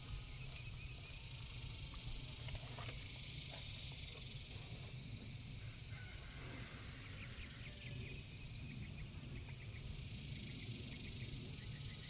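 Steady outdoor background hiss with a low rumble, and faint runs of rapid high chirps, mostly in the second half.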